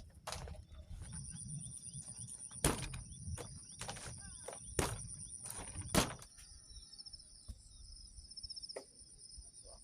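Insects trilling steadily in two high-pitched bands from about a second in, with a scatter of sharp knocks, the loudest three about three, five and six seconds in.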